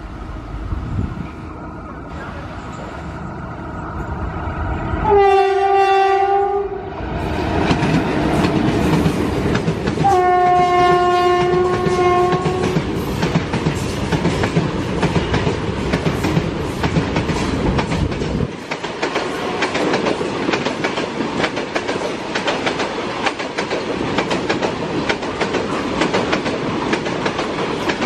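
An Indian Railways electric freight locomotive sounds its horn twice on approach: a short blast about five seconds in, then a longer one about five seconds later. Its train of BCNA covered wagons then rolls past with a continuous heavy rumble and a rapid clickety-clack of wheels over the rail joints.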